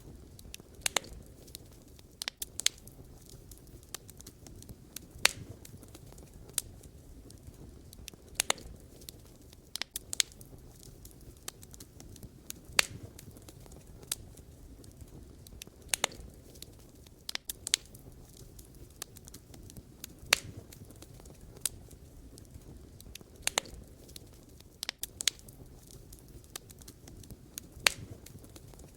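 Burning firewood crackling: sharp, irregular pops and snaps, roughly one or two a second, over a steady low rush of the flames.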